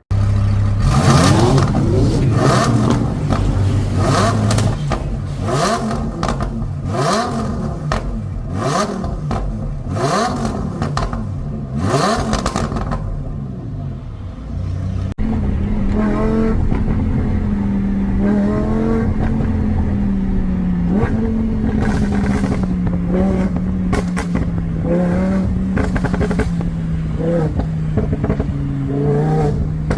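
Lamborghini Huracán's V10 through a custom titanium Euro Arts exhaust, revved hard again and again with sharp crackles and pops on each lift-off. After a cut about halfway, it runs steadier and lower with lighter blips of the throttle.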